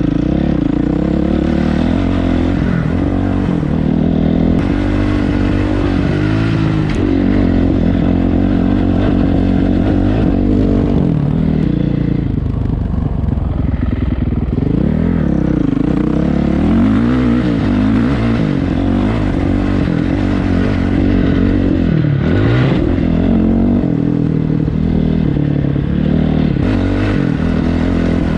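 Dirt bike engine running under throttle, its pitch rising and falling again and again as the bike speeds up and slows down.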